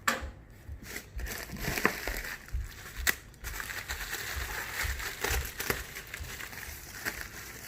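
Packing material crinkling and rustling as painted parts are handled and lifted out of a parts box, with several sharp clicks along the way.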